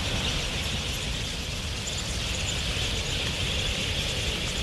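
A huge flock of wild budgerigars in flight, its massed chattering calls blending into a dense, even high hiss over a steady low rumble.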